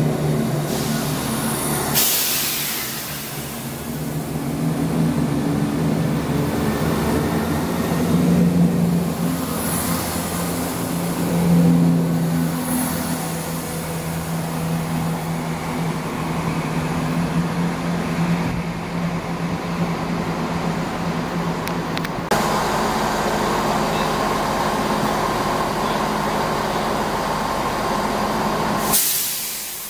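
Chiltern Railways diesel multiple unit moving slowly along the platform: a steady diesel engine hum with the rumble of the train, and a few short hisses of air.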